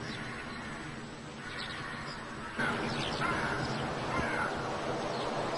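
Birds calling: a series of short calls, starting about a second and a half in and repeating over a steady background hiss.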